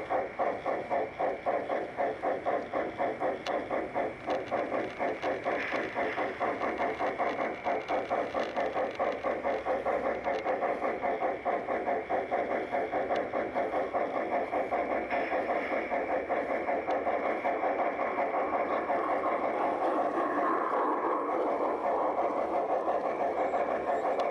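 Large-scale model steam locomotive's onboard sound unit chuffing in a steady rhythm, about four beats a second, the beats blurring together near the end.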